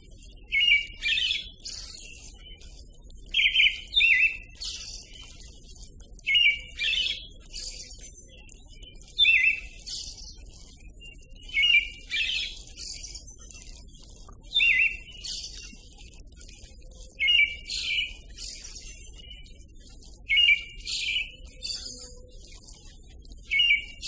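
A bird calling in short, identical phrases about every three seconds, each a quick burst followed by a thinner, higher note.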